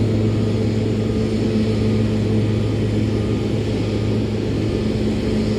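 A steady, loud engine drone with a low hum that does not change.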